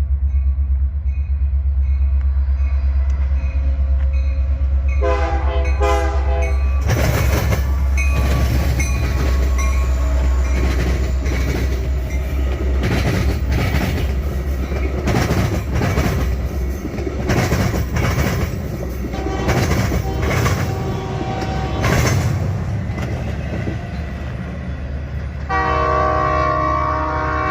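Diesel locomotives running with a deep steady rumble, while a train rolls past with its wheels clattering over the rail joints. A multi-chime air horn sounds for about two seconds around five seconds in, and again near the end.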